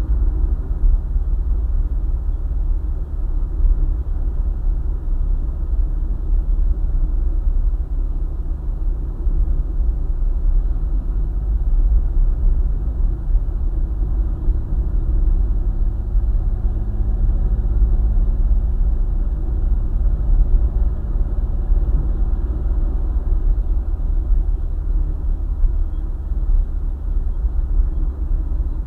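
Steady low rumble of a car travelling at highway speed: road and engine noise, with a faint humming tone joining in through the middle stretch.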